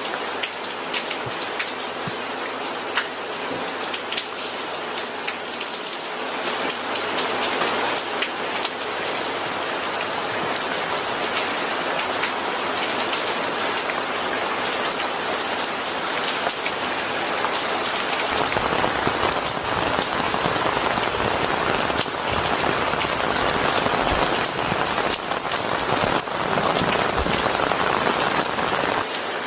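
Steady rain falling on a surface, an even hiss full of individual drop patters. About two-thirds of the way in, a deeper low rumble fills in underneath.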